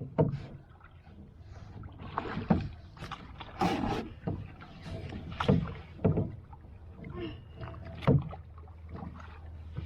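Kayak paddles dipping and splashing in lake water, in irregular strokes, over a low steady rumble.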